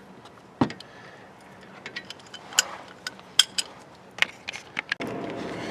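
Hand tools clinking and knocking on metal: a breaker bar and socket being fitted to a brake caliper bolt, a scatter of sharp clicks and knocks. Near the end a steady hum sets in.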